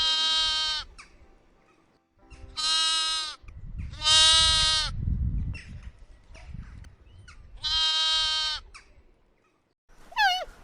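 Bleating livestock: four loud, steady-pitched bleats, each just under a second long and spaced a couple of seconds apart. Right at the end a different call begins, dropping in pitch.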